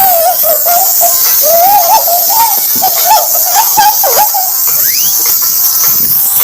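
A high-pitched, warbling squeal like a heavily pitch-shifted voice or laugh, over a loud steady hiss: the distorted, effects-processed audio typical of a 'G Major' edit.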